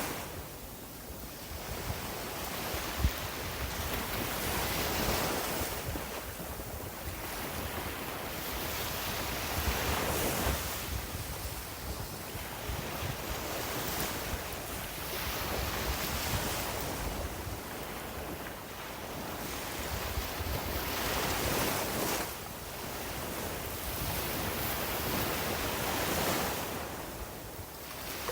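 Sea waves breaking and washing up a beach, the surf swelling and easing every five or six seconds.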